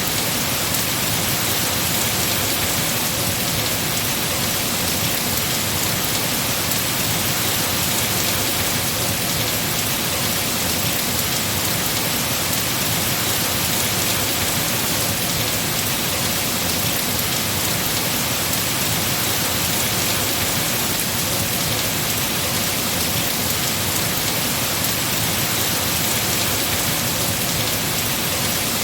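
Heavy rain falling steadily on tree foliage, an even, unbroken hiss.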